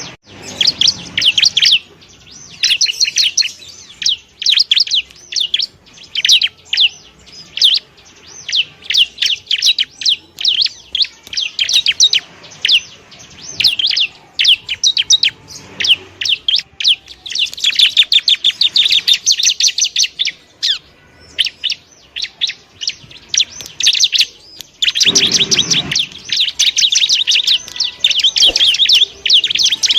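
Bar-winged prinia (ciblek) singing: fast, high chirping phrases that come in bursts with brief pauses between them, running into long, dense rattling trills in the later part.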